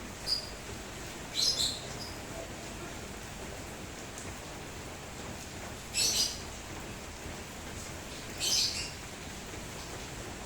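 Steady rain falling, with birds giving short high chirps in four brief bursts.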